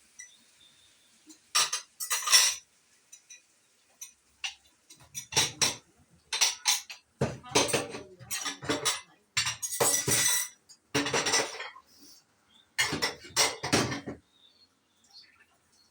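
A metal spoon scraping and clinking against a cooking pot in irregular strokes, as the meat pie filling is stirred, busiest in the second half.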